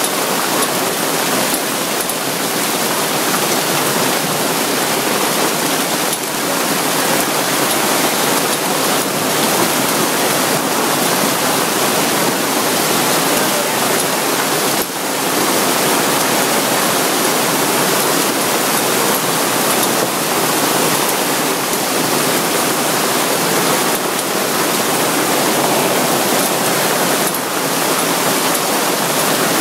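Heavy rain downpour: a loud, steady, dense hiss of falling rain and running water.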